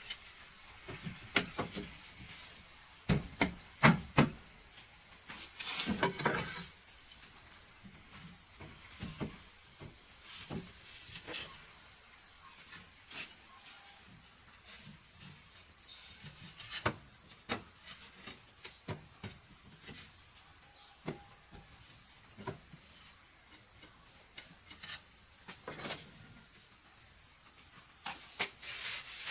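Insects, crickets among them, keep up a steady high-pitched drone, with scattered knocks and clicks throughout, busiest in the first few seconds. From about halfway, a short rising chirp repeats every two to three seconds.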